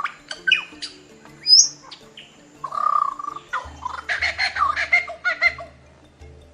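Bird calls, a series of short chirps and quick whistled glides, over soft background music; a low pulsing beat joins the music about three and a half seconds in.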